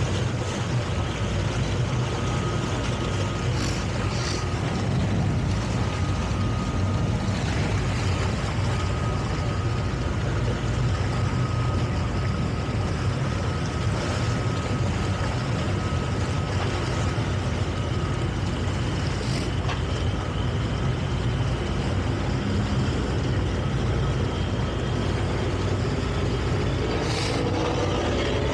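Towboat engine running steadily under tow, a constant low rumble with a faint steady whine above it.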